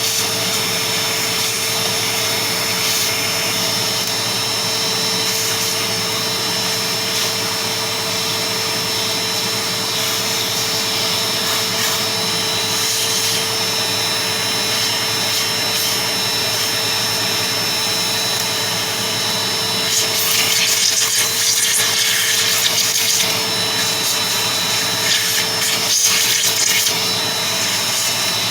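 Vacuum cleaner running steadily with a constant whine while dust is cleaned off a table fan's motor. From about twenty seconds in it gets louder and rougher, with rubbing as the nozzle works over the motor.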